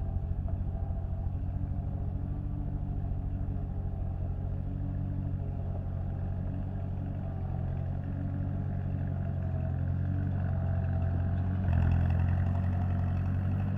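An engine running steadily at a low, even pitch, stepping up suddenly to a louder, fuller sound near the end.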